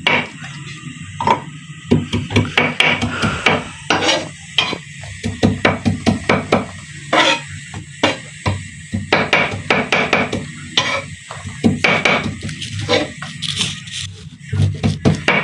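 Knife chopping fresh ginger on a wooden cutting board: a long run of uneven knocks, some in quick clusters.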